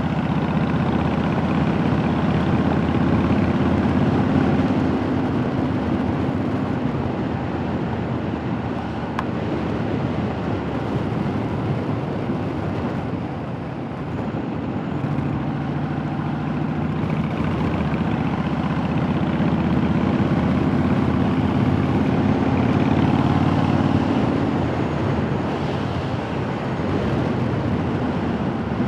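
Honda Fury's V-twin engine running on the road, with wind rushing over the microphone. The engine eases off about a third of the way in, then builds again past the middle.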